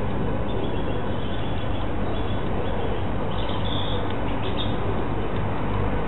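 Birds calling faintly in short, high notes over a steady low hum and hiss from the camera's microphone, with a brighter burst of calls about three and a half seconds in.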